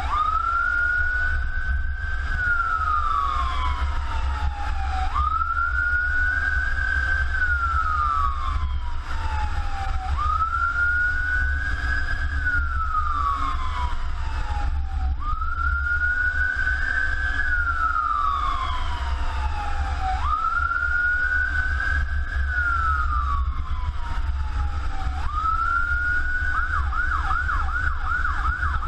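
Emergency vehicle siren on wail, rising and falling about every five seconds, then switching to a fast yelp near the end, over a steady low engine rumble.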